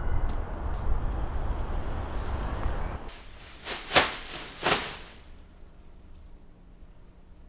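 Traffic rumble of a city street, cut off abruptly about three seconds in. Then three sharp punch or blow sound effects in quick succession, the middle one the loudest.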